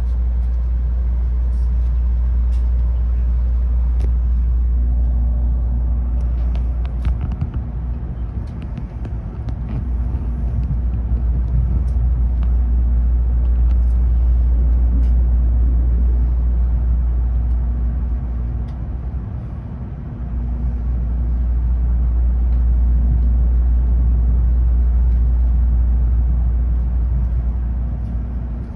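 Cabin running noise of a Tokaido Shinkansen train: a steady deep rumble with a faint hum that comes and goes, and a few light clicks about seven seconds in.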